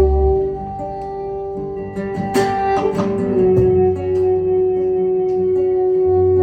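Live acoustic guitar music: held notes ring over deep bass notes, with a sharp strummed chord about two and a half seconds in.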